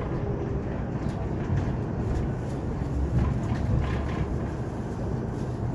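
Cabin noise of a Hyundai Elec City electric bus on the move: a steady low rumble of tyres and road, with a few faint clicks and rattles.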